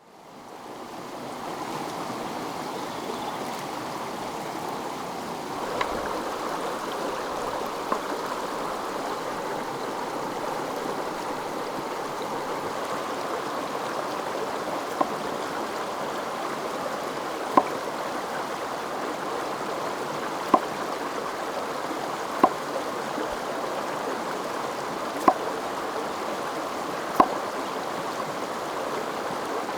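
Steady rushing of a flowing stream. From about six seconds in it is broken by eight short, sharp knocks, a few seconds apart.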